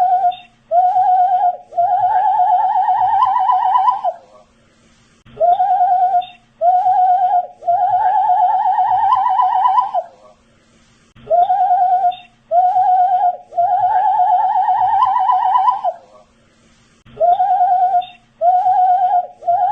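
A man whistling the same short phrase over and over: two brief notes followed by a longer, wavering note, repeating about every six seconds.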